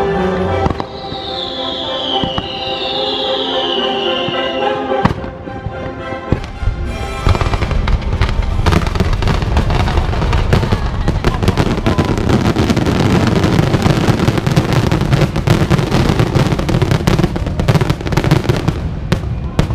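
Show music with falling whistle-like glides for the first few seconds. About a third of the way in, a fireworks finale barrage takes over: shells burst in rapid, unbroken succession to the end.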